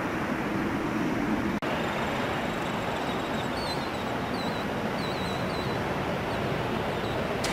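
Steady jet-engine roar of an airliner at the runway, broken by a brief cut about a second and a half in. A small bird chirps several times in the middle.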